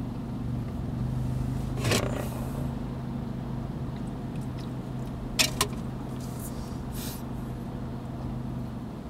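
Vehicle engine idling at a standstill, a steady low hum heard from inside a car's cabin. There is a short click about two seconds in and two sharper clicks in quick succession about halfway through.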